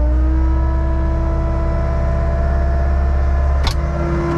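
Skid steer engine running with its auxiliary hydraulics engaged to drive a Mud Demon concrete pump: a whine rises in pitch and settles into a steady tone over a low engine drone. A sharp clack comes near the end.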